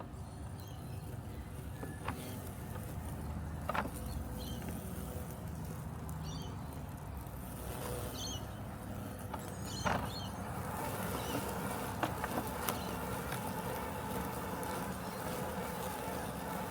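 Robotic lawn mower running with a steady mechanical hum. A few short clicks and some brief high chirps are heard over it in the first half.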